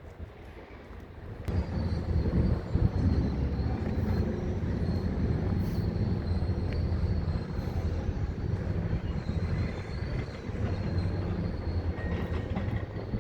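Hitachi 870 excavator's diesel engine running, rising sharply to heavy load about a second and a half in and holding there, with a steady high whine above it.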